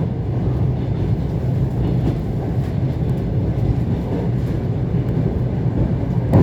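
ET2 electric multiple unit running along the line, a steady low rumble of wheels and traction gear, with one sharp knock near the end.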